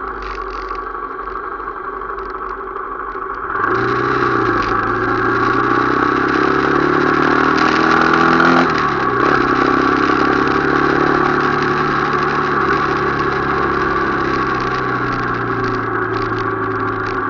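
Motorcycle engine on the move, running quietly at first, then from about four seconds in revving up steadily. It drops in pitch at a gear change near nine seconds and then runs on at a steady speed.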